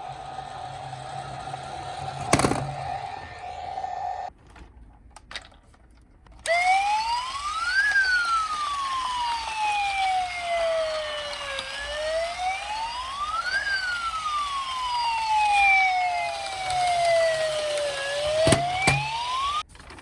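A steady single tone for about four seconds, then after a short pause a police-car siren wail that rises quickly and falls slowly, repeating about every six seconds.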